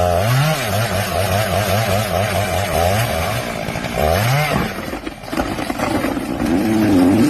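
An engine running and revving unevenly, its pitch wavering up and down, with a sharp rise about four seconds in.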